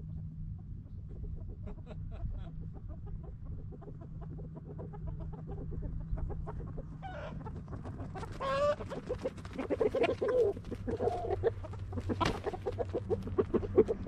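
Chickens clucking and calling, sparse at first, then louder and busier from about halfway in, with one trilling call; a steady low hum runs underneath.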